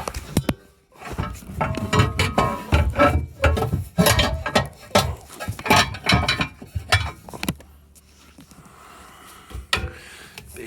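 Aluminum mounting pieces clanking and rattling against each other and the metal frame as they are handled: a dense run of metallic clicks and knocks, some briefly ringing, that stops about three-quarters of the way through.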